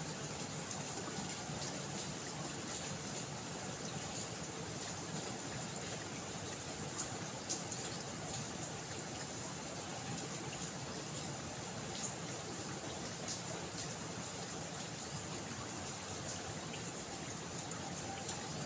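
Steady rain falling, with water trickling and a few single drops ticking close by.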